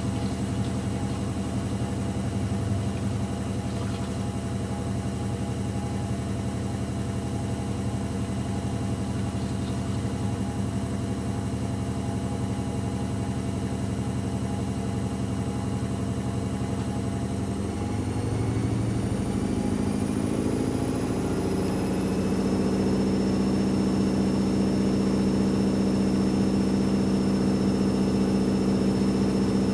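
AEG Lavamat L74810 washing machine's drum motor running steadily with a humming whine. About two-thirds of the way through it speeds up to a higher, louder spin and holds there.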